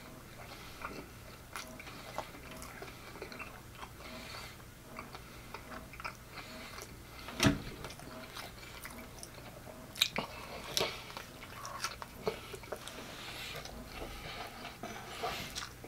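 Close-up chewing of a soft flour-tortilla pork-chop taco: wet, irregular mouth and lip sounds with small clicks, and a fresh bite taken partway through. A single sharp knock stands out about seven and a half seconds in, the loudest sound.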